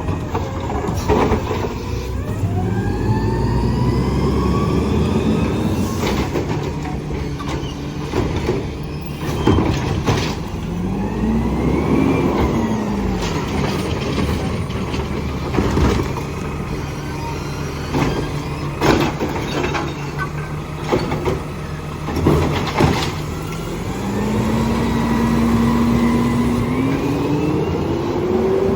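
Garbage truck engine running, revving up and down several times as it works its lift, with a series of sharp bangs and knocks from trash barrels being handled and dumped. Near the end the engine revs up steadily.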